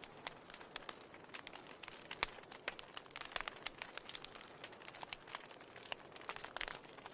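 Wood fire in a fireplace crackling: irregular sharp pops and snaps over a soft steady hiss of burning.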